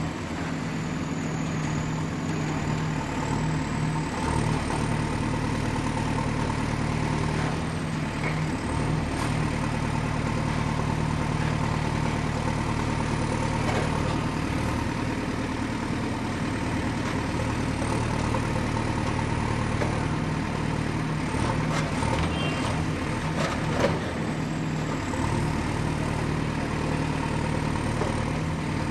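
Excavator's diesel engine running steadily, with scattered knocks and clanks of the machine working and one louder knock near the end.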